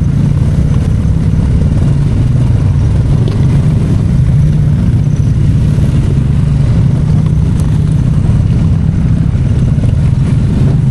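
ATV engine running at a steady, even throttle, heard from on board the moving quad as a loud, constant low drone.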